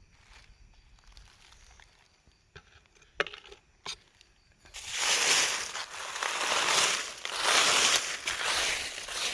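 A couple of sharp clicks, then from about five seconds in a loud crunching, rustling noise that comes in swells.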